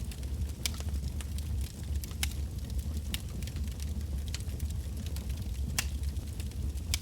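Wood bonfire burning, with firewood crackling and popping in sharp, irregular snaps over a steady low rumble.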